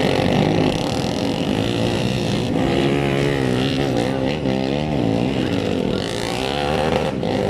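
Motocross bike engines running, their pitch rising and falling repeatedly as the throttles are worked.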